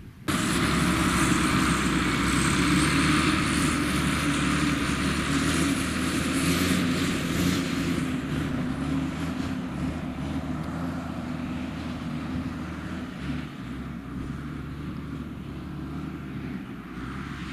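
Large diesel farm machine engine running loud and steady, with a high thin whine over it. It starts abruptly just after the beginning and slowly fades through the second half.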